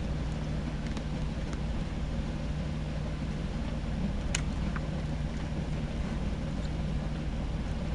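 A vehicle engine idling steadily, a constant low hum with no revving, with a single sharp click a little over four seconds in.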